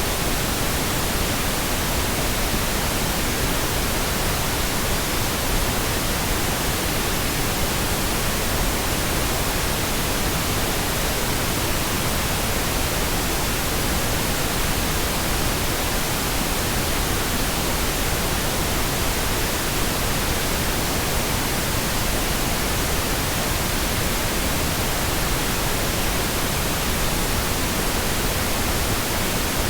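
Synthetic pink noise: a steady, even hiss spread across all pitches, with no changes or breaks.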